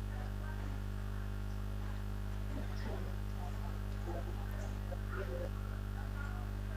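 Steady low electrical mains hum on the audio line, with faint scattered sounds over it.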